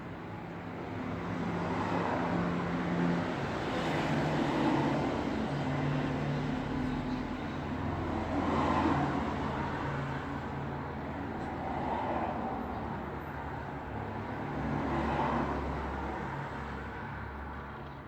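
Road traffic: several vehicles pass one after another, each swelling and fading, over a steady low engine hum.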